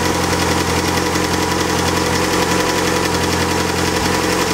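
Nissan SR20 four-cylinder engine idling steadily under an open hood, just got running after being swapped into the car.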